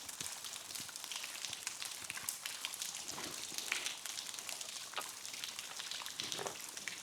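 Water from a small trickling waterfall falling as scattered drops: a steady light hiss with many irregular ticks of droplets pattering onto rock and water.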